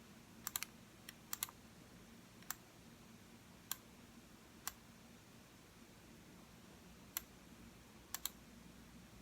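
Computer mouse button clicking: about a dozen sharp clicks spread unevenly, several in quick double-click pairs, over a faint low room hum.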